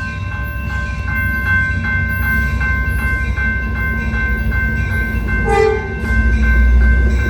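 Grade-crossing bell ringing steadily at about three strokes a second while an Amtrak Capitol Corridor train approaches with a rumble that grows louder toward the end. The locomotive's horn gives a short blast about five and a half seconds in.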